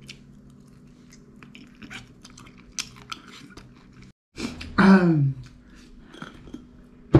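Close-up chewing and gnawing on spicy chicken feet: wet mouth clicks and small crunches, scattered and irregular. About five seconds in, a short loud voiced sound from the eater that falls in pitch.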